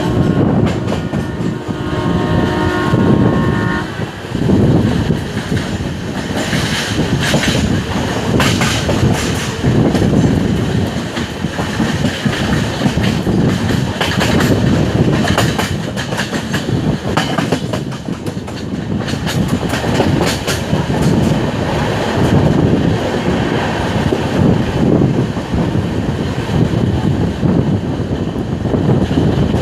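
Passenger train hauled by WDM3A ALCO diesel locomotives running at speed: a steady rumble with wheels clattering over the rail joints. The locomotive's horn sounds one long blast that stops about four seconds in.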